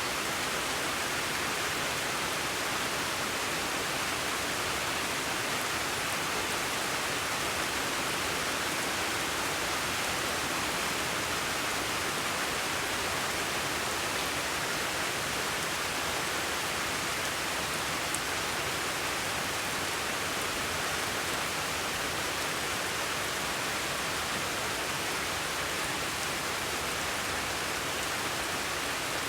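Steady, even hiss of falling rain, unchanging throughout, with a faint tick or two of drops.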